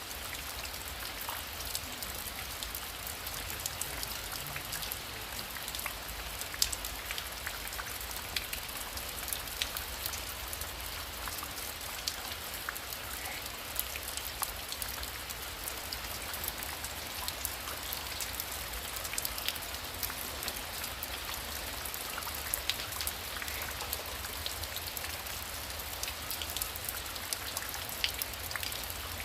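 Heavy rain falling steadily, a dense patter of drops hitting a surface with sharper single drop-strikes all through, over a low, steady rumble.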